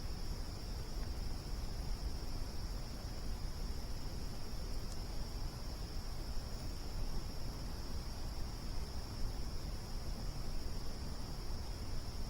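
A steady chorus of crickets, one continuous high trill, over a low steady rumble, with a single faint tick about five seconds in.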